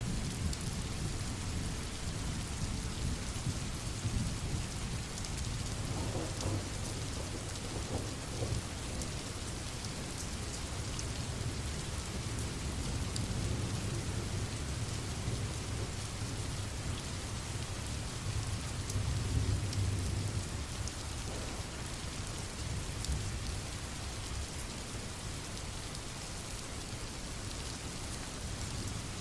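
Steady rain with a low rolling rumble of thunder beneath it, starting suddenly out of silence. The rumble swells about six to eight seconds in and again near twenty seconds.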